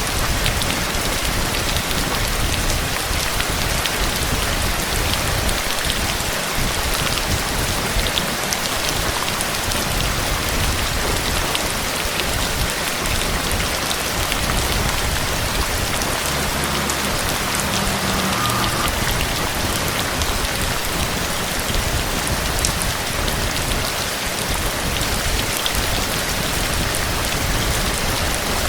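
Heavy rain falling steadily: a dense, even hiss with the close patter of many individual drops.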